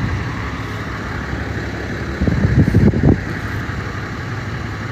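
Steady street and vehicle noise, with a louder rough rumble lasting about a second, two seconds in.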